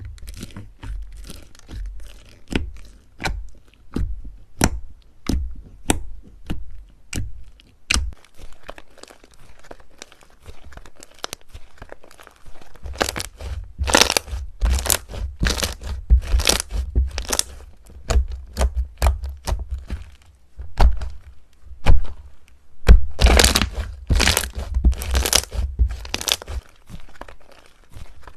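Slime being squeezed and pressed by hand, giving a string of sharp crackles and pops, spaced about one a second at first and coming in quicker clusters later on.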